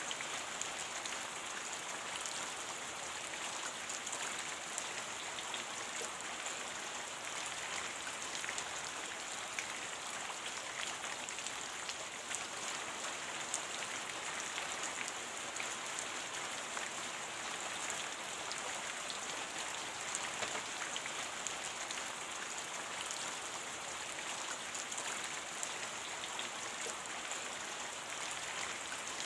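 Steady rain: a dense, even hiss with many tiny drop ticks scattered through it.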